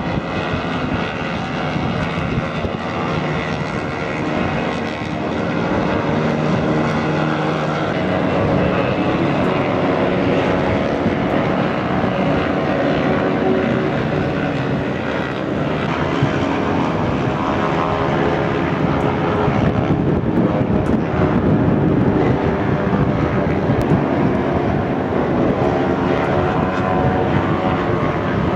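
Several racing motorcycles' engines running together, a loud, continuous engine noise with many overlapping pitches.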